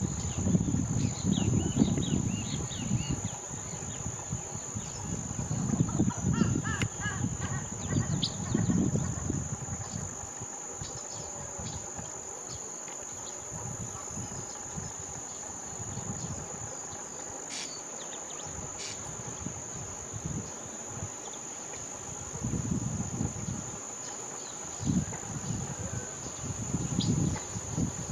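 A steady, high-pitched insect drone, like a cricket or cicada, runs throughout. Gusts of wind rumble on the microphone near the start, again around a quarter of the way in, and near the end, and a few faint bird calls come in the first third.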